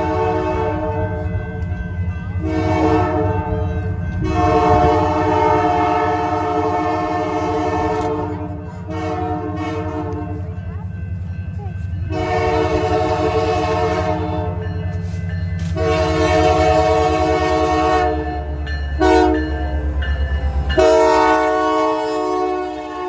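Multi-chime locomotive air horn sounding a long series of blasts, most of them several seconds long with short breaks and one brief blast near the end. Under the horn is the low rumble of the locomotive, which drops away about three-quarters of the way through.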